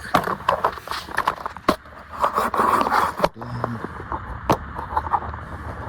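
Close handling noise from a camera being moved to a new angle: scraping and rubbing in two stretches, with a few sharp clicks and knocks.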